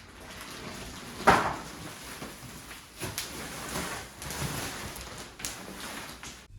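Household knocking and handling noises: one sharp knock about a second in, then a few softer bumps.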